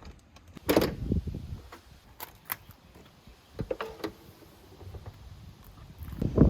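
A few sharp clicks and knocks, like handling noises, over a low rumble.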